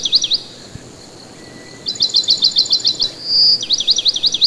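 A bird singing high-pitched phrases: a held clear whistle, then a fast run of sharp, falling notes, about eight a second. The phrase comes twice.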